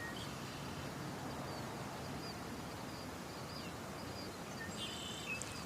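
Outdoor nature ambience: a steady background hiss with faint, short high-pitched bird chirps scattered through it, a small flurry of them near the end.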